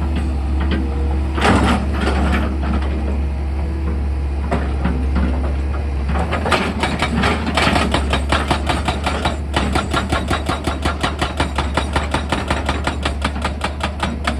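Heavy excavator engine running with a steady low hum, with a few scattered knocks early on. About six seconds in, a rock drill starts hammering rapidly and evenly, around six strikes a second.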